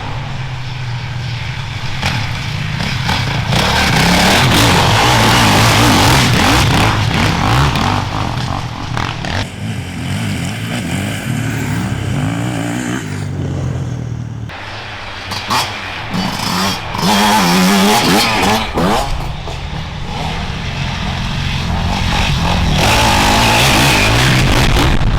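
Enduro motorcycles riding off-road, engines revving hard and changing pitch with throttle and gear changes. The sound fades briefly about halfway through, then builds again as more engine noise comes in.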